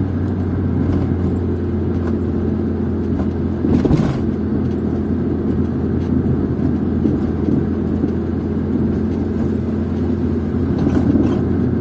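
Steady engine and road noise of a moving car heard from inside the cabin, a low even drone, with a brief thump about four seconds in.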